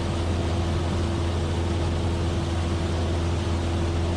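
Cessna 172F's six-cylinder Continental O-300 engine and propeller in steady cruise flight, an even, unchanging drone with a strong low hum.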